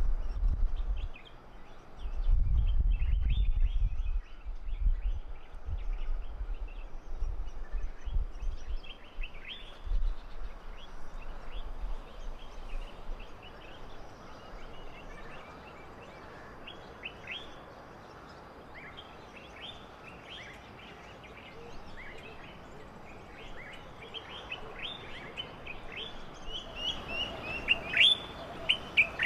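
Birds calling with many short, quick chirps, coming thicker toward the end. A low rumble runs under them through roughly the first half.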